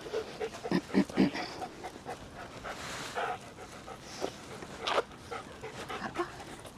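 German Shepherd Dog panting in short, irregular breaths.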